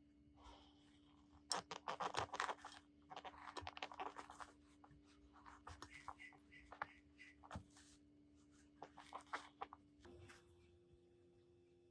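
Faint scraping and quick light clicks of hand work on small parts, coming in several short clusters, over a steady low hum.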